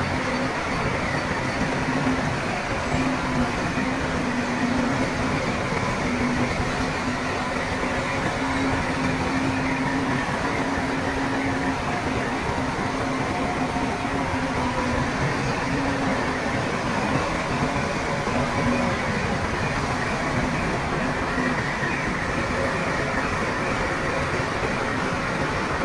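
Crawler bulldozer's diesel engine running steadily at work, with a faint hum that comes and goes.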